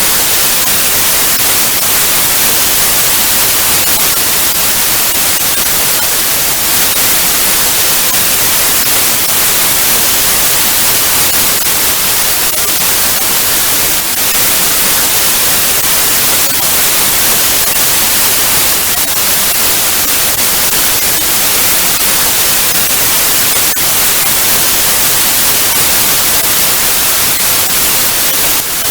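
Analogue TV static: loud, steady hiss, brightest at the top end, with a faint crackling flicker through it.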